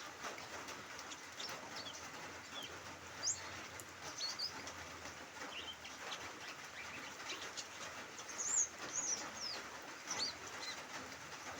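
Light drizzle making a steady hiss, with small birds giving short, high chirps and quick whistled glides scattered through it, a cluster of them about two thirds of the way in.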